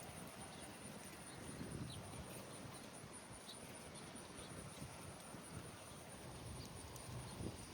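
Insects trilling steadily at a high pitch over the crunch of footsteps, with a few faint short chirps.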